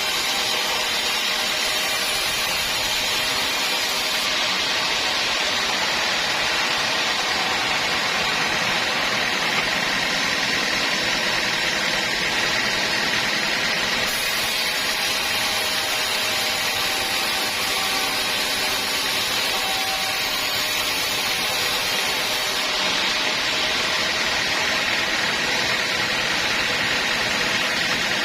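Sawmill saw running steadily through wood, a continuous machine noise with a faint high whine.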